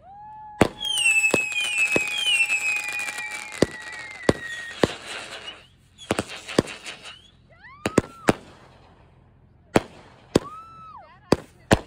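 Consumer aerial fireworks going off: about a dozen sharp bangs from launches and bursts. Several whistles glide down in pitch over a crackling hiss in the first half, and two short rising-and-falling whistles come later on.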